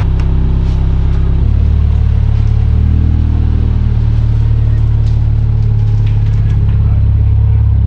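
A motor vehicle's engine running steadily with a low hum that shifts pitch a few times, as with changes in engine speed.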